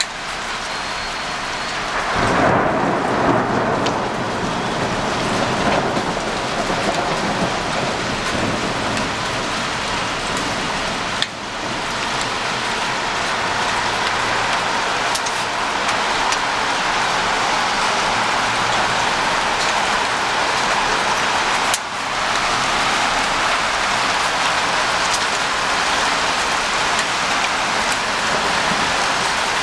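Heavy rain falling steadily, with a loud clap of thunder about two seconds in that rumbles on for a few seconds before fading back under the rain.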